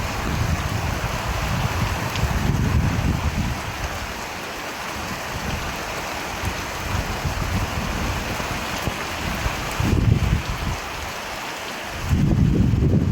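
Steady rain falling, an even hiss, with low rumbles that swell and fade a few times: about two seconds in, around ten seconds, and again near the end.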